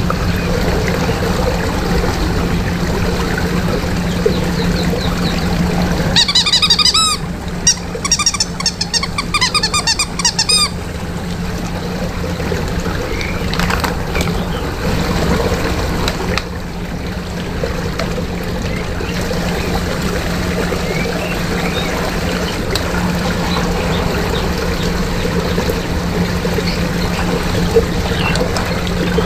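Water churning and pouring in a whirlpool, with a steady low hum under it. From about six to ten seconds in comes a quick run of repeated squeaky chirps.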